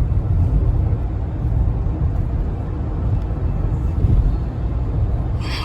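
Steady low rumble of a car's road and engine noise heard inside the moving vehicle's cabin.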